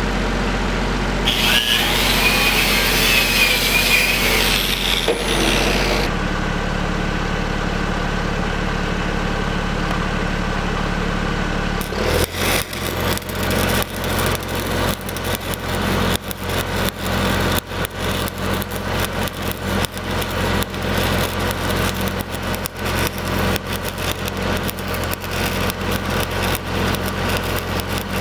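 Engine-driven Lincoln SAE 300 welder running steadily. About twelve seconds in, a stick-welding arc strikes and crackles with 8010 rod, and the engine hum shifts as the arc loads it. Earlier, from about one to six seconds in, there is a louder hissing burst with a high squeal.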